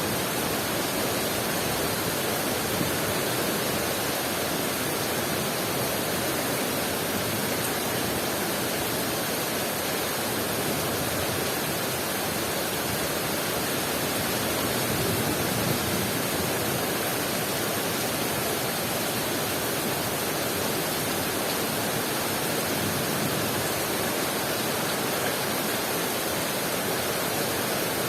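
Heavy rain pouring down in a steady, even hiss that does not let up.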